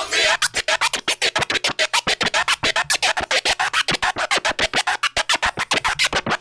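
Vinyl turntable scratching in a hip hop DJ mix: a record chopped into rapid stabs, about eight to ten cuts a second.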